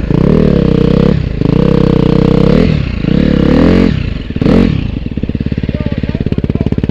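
Motorcycle engine revved up and down four times in quick succession, then settling about five seconds in to a steady, pulsing idle.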